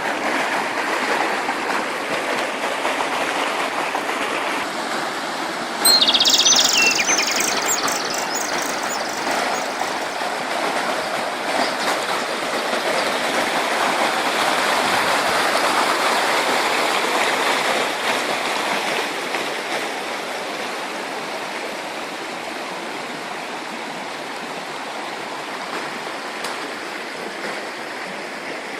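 Running stream water, a steady rushing that continues throughout. About six seconds in it gets suddenly louder and birds chirp briefly over it.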